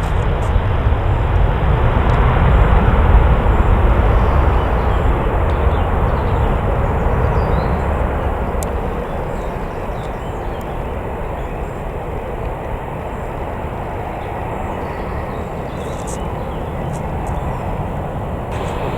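Jet airliner passing close by, its engine noise loudest in the first few seconds and then slowly fading as it moves away.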